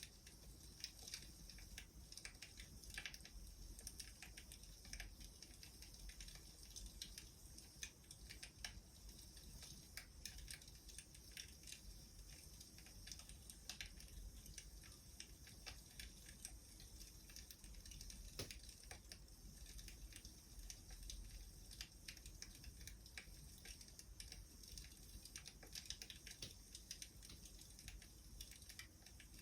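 Faint crackling of a wood fire: irregular small pops and clicks, with a slightly stronger pop about 18 seconds in.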